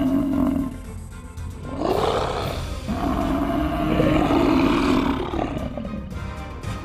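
A large wild animal giving long, drawn-out roaring calls: one tails off just after the start, and a second runs for about three seconds from about two seconds in. Background music plays under the calls.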